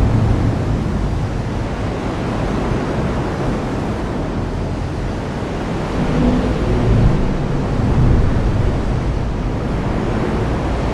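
Heavy rain pouring steadily, with a low rumble that swells about six to eight seconds in.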